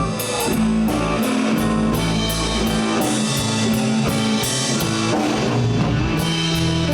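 Live blues band playing with no singing: guitars, bass and drum kit, with a steady beat.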